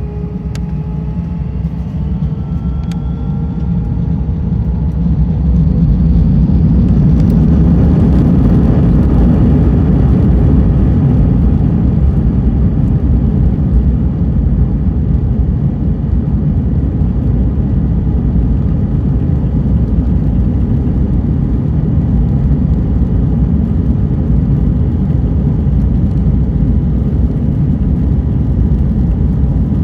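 Airbus A320 jet engines spooling up to takeoff thrust, heard from inside the cabin. A whine rises in pitch over the first few seconds as the sound grows louder, then settles into a steady, loud, low rumble as the aircraft rolls down the runway.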